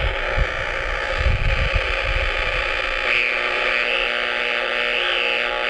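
Radio-frequency interference from power lines, played through an RFI locating receiver's speaker: steady, dense static with several noise sources mixed together. A faint wavering tone comes in about halfway. There are a few low thuds in the first two seconds.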